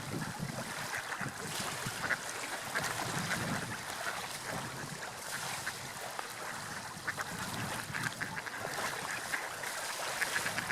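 Gulls calling, short repeated cries, over a steady wash of sea waves and wind.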